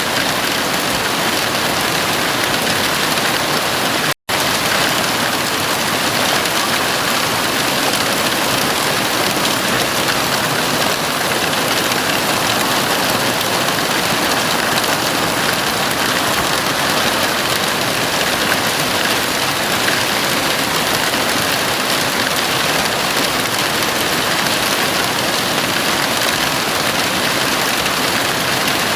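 Heavy rain falling steadily on a house roof, a dense, even hiss. It cuts out completely for a split second about four seconds in.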